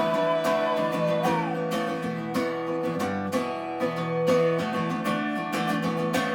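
Live acoustic guitar strumming a slow song, with a long held note that slides upward and ends about a second in. The music cuts off suddenly at the end.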